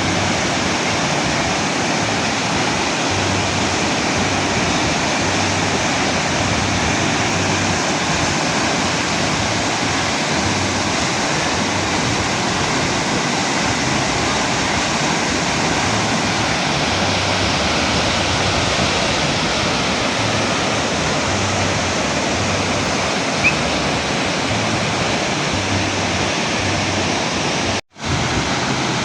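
Thomson's Falls, a large waterfall, pouring with a steady, loud rush of water. The sound breaks off for a moment near the end.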